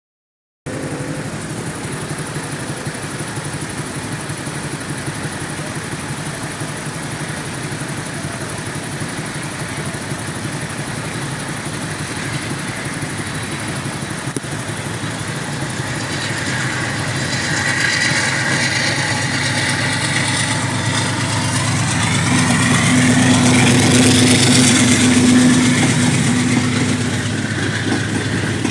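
Vehicle engines idling at a railway level crossing. A train draws near from about halfway, its noise building steadily louder with a steady low tone in the last few seconds.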